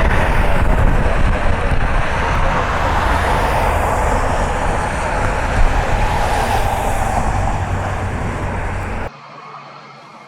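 Jet airliner on final approach passing low overhead: a loud, steady rush of jet engine noise that cuts off suddenly near the end.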